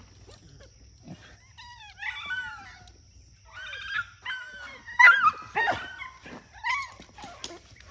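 Dog giving a run of high, wavering whines and yelps that bend up and down in pitch, starting about a second and a half in and loudest around the middle.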